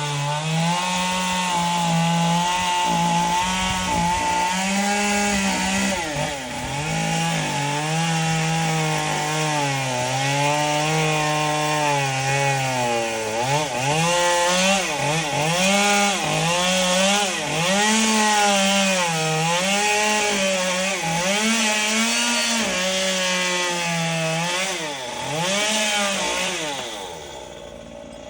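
Chainsaw cutting palm fronds, its engine pitch dipping and recovering over and over as the chain bites into the wood, then easing off near the end.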